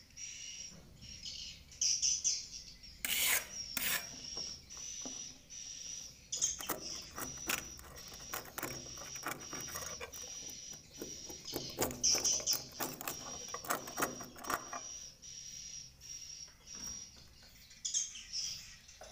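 Swiftlets chirping in a steady high twitter inside a swiftlet nesting house, with spells of scraping and rasping as nests are scraped off the nesting planks during the harvest.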